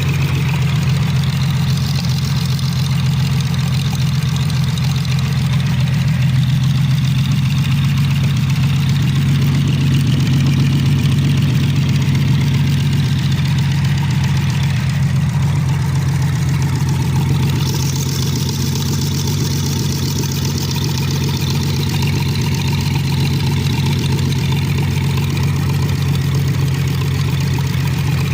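GAZ-52 inline-six petrol engine of a Lviv forklift running steadily at idle, just after its first start.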